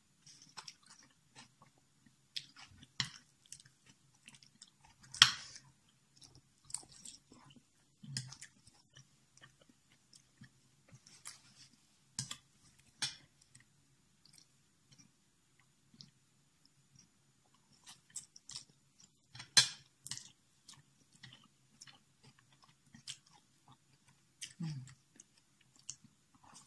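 A person chewing and biting mouthfuls of spicy instant noodles with vegetables close to the microphone: soft wet crackles, with a few sharp clicks, the loudest about five seconds in and at about twenty seconds. A faint low hum runs underneath.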